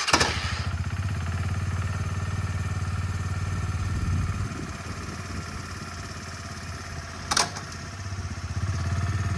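Motorcycle engine starting up and running with a fast, even beat. It settles a little quieter midway, gives one sharp clack about seven seconds in, and picks up again near the end.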